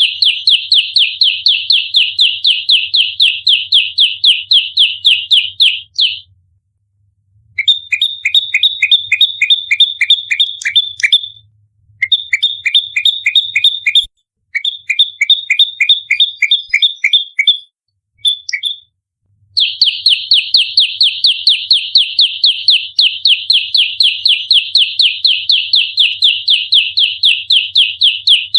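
Prenjak lumut singing its rapid-fire fighting call: a fast, dense rattle of sharp high notes, about five a second. The rattle breaks off about six seconds in, then returns as shorter bursts of two-pitched notes with brief pauses. The dense rattle resumes about two-thirds of the way through.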